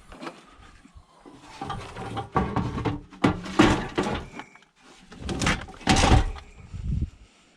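Clunking and clattering of a heavy piece of scrap metal being handled and loaded into a car, in several loud bursts.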